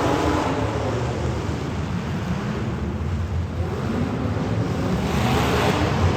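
Street stock race car engines running hard as the cars pass. The engine sound falls away toward the middle and builds again near the end as more cars come by.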